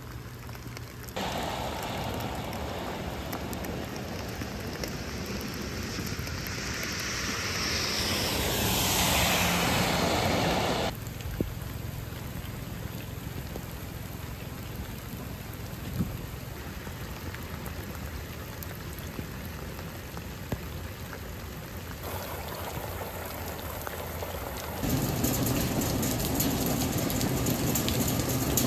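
Rain from a tropical storm falling steadily on wet pavement and puddles, a dense hiss that jumps in level several times. A louder swell of hiss comes about eight to eleven seconds in, and there are a few sharp single taps.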